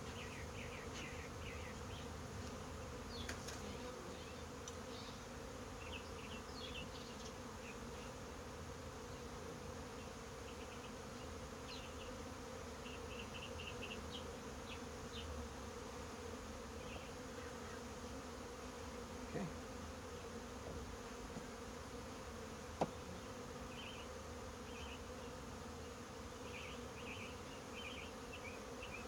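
A honey bee colony buzzing steadily around an open hive. Faint short high chirps come now and then, and there is a single sharp click about three-quarters of the way through.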